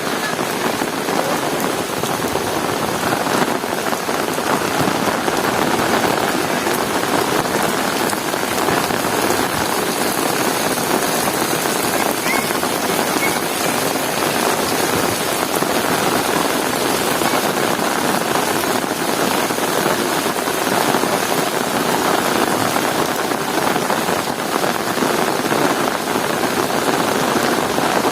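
Heavy rain falling steadily, an even hiss of drops on hard surfaces.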